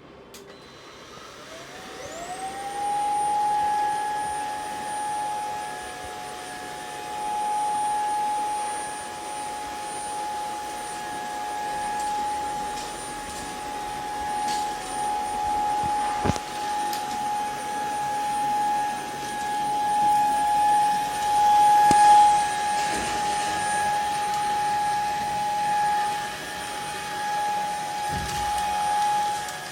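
ILIFE G80 cordless stick vacuum's motor spinning up about two seconds in, then running with a steady high whine that swells and dips in loudness.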